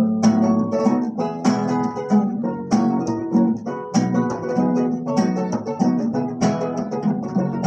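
Acoustic guitar strummed in a steady rhythm, chords struck roughly once a second with a few quicker strokes between, playing an instrumental passage between sung verses.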